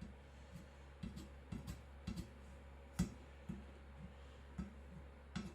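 Scattered light taps and knocks from handling the custom chopper while testing its freshly sharpened edge, with one sharp click about three seconds in, over a steady low hum.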